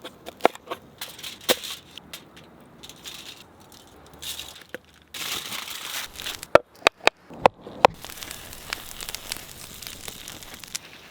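Food-preparation handling: scattered clicks and knocks, then about three seconds of crinkling with several sharp ticks, fitting aluminium foil being crumpled around a seasoned cauliflower slice, followed by a softer steady crackle.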